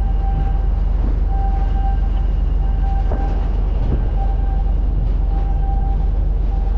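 Steady low rumble of a container ship's machinery while manoeuvring, with a faint fast pulsing in it. A mid-pitched tone comes and goes about once a second over the rumble.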